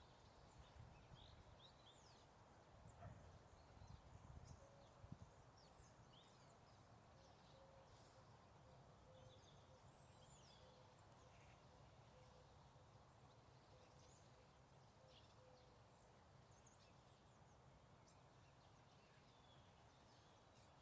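Near silence outdoors, with faint scattered bird chirps and a few soft low knocks in the first few seconds.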